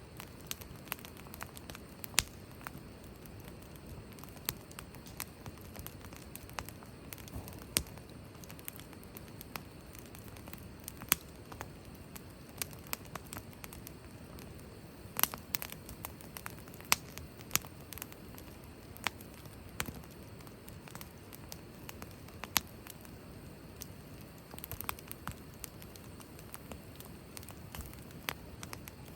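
Wood campfire crackling: irregular sharp pops and snaps, a few of them loud, over a steady low hiss of burning.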